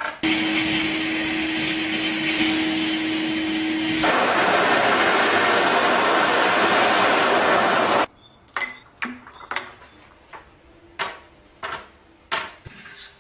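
Electric power tool running for about eight seconds, a steady hum at first and then a louder, rougher noise from about four seconds in, before it cuts off suddenly. A series of sharp clicks and knocks follows.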